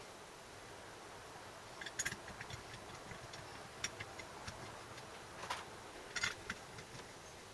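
A few light, sharp clicks and taps of small hard objects over a quiet background: a cluster about two seconds in, single ticks near four seconds, and more taps between five and a half and six and a half seconds.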